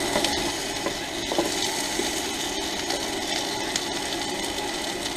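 Diced potatoes, onions, peppers and chicken sizzling steadily in a pan on an induction cooktop, with a few light clicks and scrapes of a utensil stirring the food.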